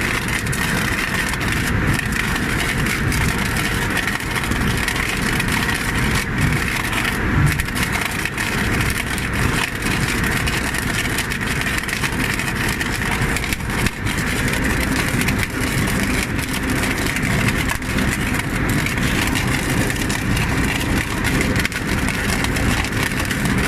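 Engine-driven rail welding machine running steadily and loudly, with no letup.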